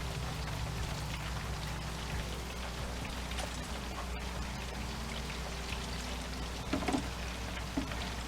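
Hot oil in a deep fryer sizzling and crackling steadily, with a couple of short knocks near the end.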